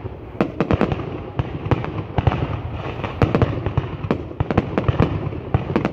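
Fireworks going off: a rapid, irregular series of sharp bangs, several a second, over a continuous noisy background.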